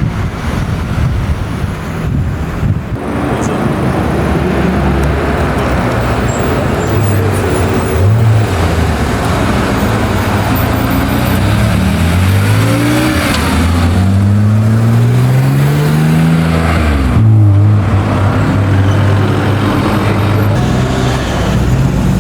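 Classic car engines running loud. In the second half one engine revs up, its pitch climbing steadily for several seconds, then drops suddenly at a gear change before running steady again.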